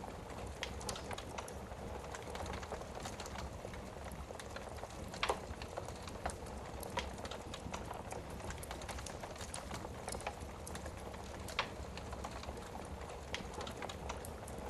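Wood fire burning in a fireplace: a steady low hiss with irregular sharp crackles and pops, a few louder pops standing out, the strongest about five seconds in.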